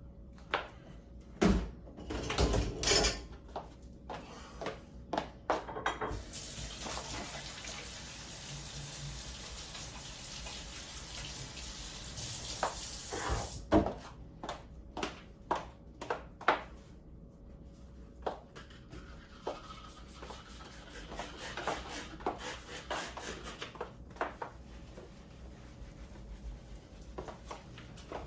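Dishes, cutlery and dishwasher racks knocking and clinking as a dishwasher is unloaded, in scattered sharp clatters, with a stretch of steady hiss, like a running tap, from about six to thirteen seconds in.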